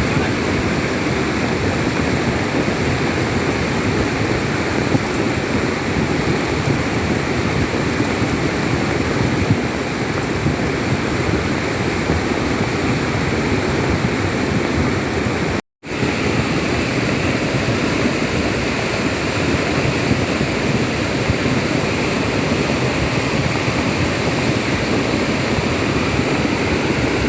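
Fast-flowing floodwater rushing, a steady loud wash of noise that drops out for an instant about halfway through.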